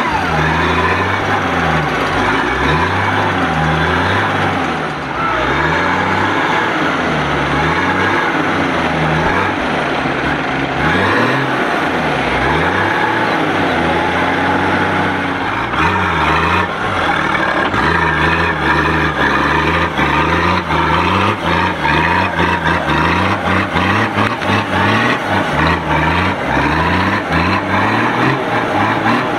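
A 4x4's engine revving up and down in repeated bursts under load as the vehicle climbs nose-first out of a deep pit. A quick run of short knocks comes in through the second half.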